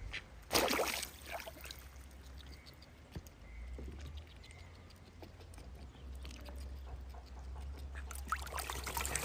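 Call duck splashing into a small tub of water, then paddling about with faint splashes and drips.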